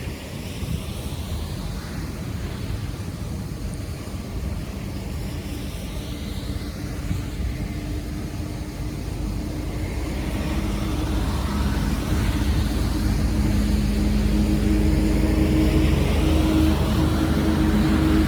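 A motor vehicle's engine over a steady low rumble, growing louder from about halfway through as it comes closer.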